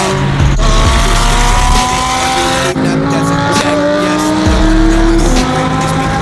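Car engine accelerating hard, its pitch climbing steadily. The pitch drops at a gear change about two and a half seconds in, climbs again, and drops at another shift near the end.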